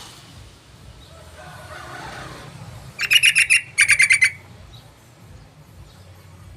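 Yellow-vented bulbul (trucukan) calling: two short bursts of rapid repeated chattering notes about three seconds in, the second close behind the first.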